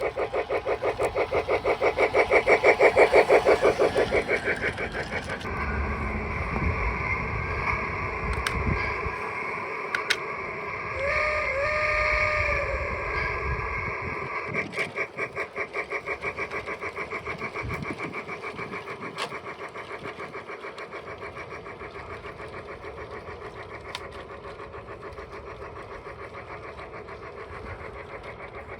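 Model train running past: a rhythmic, evenly repeating clatter swells to its loudest about three seconds in, then fades as the train moves away. A short horn-like tone sounds briefly around the middle.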